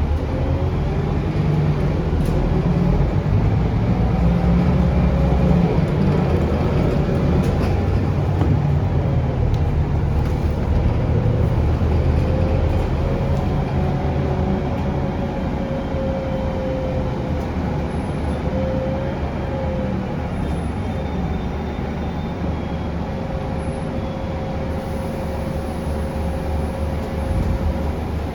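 Heard from inside the cabin, a Scania K360UA articulated bus is on the move, its five-cylinder Scania DC9 diesel rumbling steadily. A thin whine from the engine or its ZF Ecolife automatic transmission drifts up and down in pitch with the changing speed.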